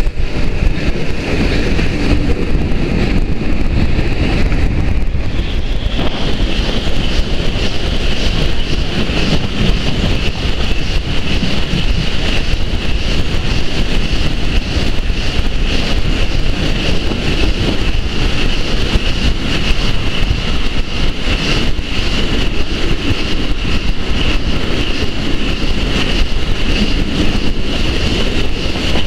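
Steam-hauled heritage train running at speed, heard close behind the locomotive: a loud, steady rumble of wheels on rail with wind buffeting the microphone. About six seconds in it enters a tunnel and a steady high-pitched ring rises above the rumble.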